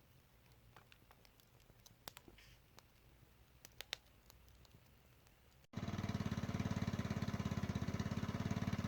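A few faint clicks, then a sudden cut to a loud engine running with a fast, even pulsing beat.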